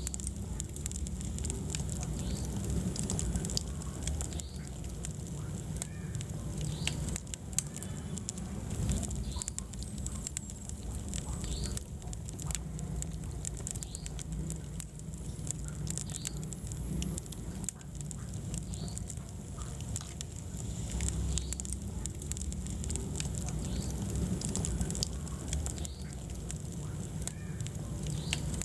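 Wood fire burning in a fireplace, with frequent sharp crackles and pops over a steady low rumble of flame.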